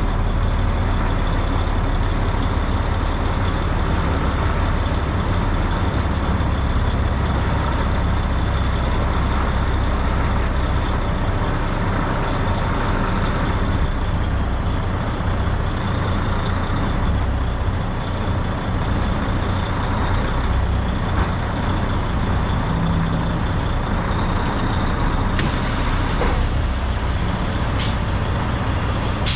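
Semi truck's diesel engine running with a steady low rumble and a thin high whine above it. A hiss of air comes in over the last few seconds, ending in a short sharp blast typical of the air brakes.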